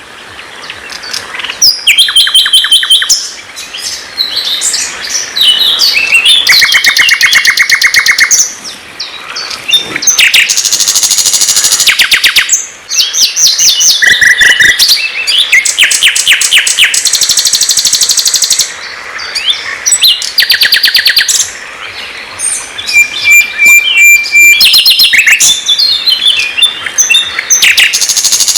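Songbird singing loudly and without a break, in many changing phrases: fast runs of repeated notes and trills, high-pitched, with short pauses between them.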